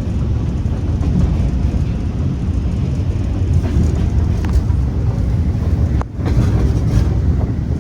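Steady low rumble inside the cab of a Class 47 diesel locomotive as it rolls downhill: the diesel engine running and the wheels drumming on the track, with a brief dip in level about six seconds in.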